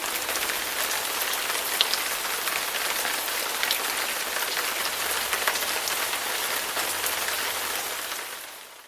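Steady heavy rain falling on a hard surface: a dense hiss flecked with the ticks of individual drops, fading out near the end.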